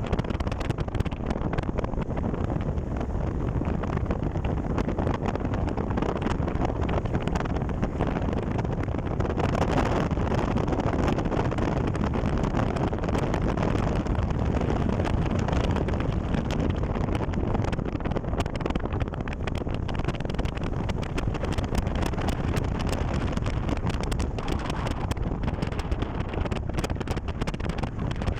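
Wind buffeting the microphone: a steady low rumble with scattered crackling.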